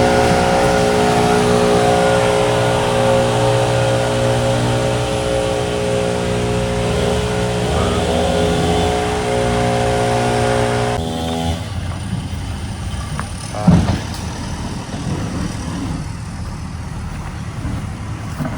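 Backhoe's diesel engine running steadily at a constant speed, then stopping abruptly about eleven seconds in. After that, a lower, rougher rumble of machinery with a single sharp knock about two seconds later.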